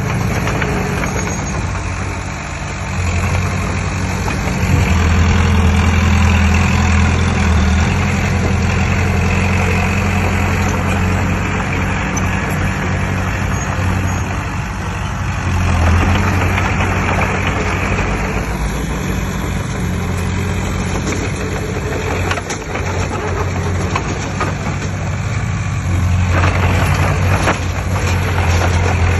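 Heavy diesel engine of earthmoving machinery running and working, its low rumble swelling several times as it takes load, with a steady wash of mechanical noise above it.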